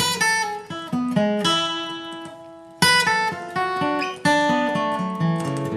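Acoustic guitar played slowly: a chord struck at the start and again about three seconds in, with single picked notes between and bass-string notes near the end.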